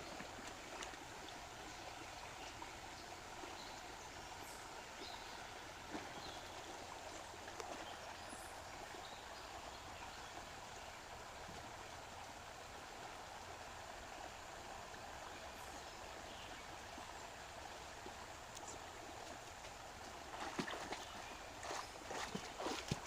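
Steady rushing of a flowing rainforest stream, with a few short, sharp sounds near the end.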